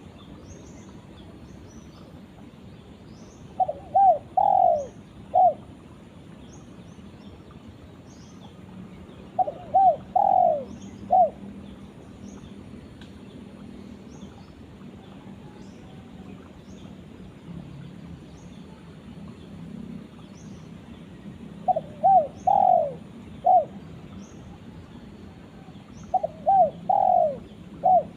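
Spotted dove (tekukur) cooing: four phrases of a few short notes ending in a longer falling coo, spaced several seconds apart. Faint high chirps repeat steadily throughout.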